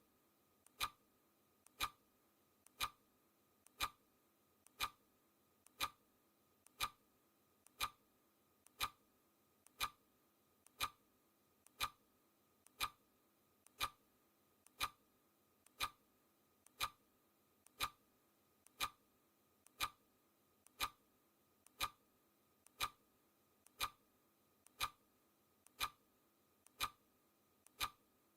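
Clock ticking sound effect of a countdown timer, one sharp tick every second, each with a faint click just before it.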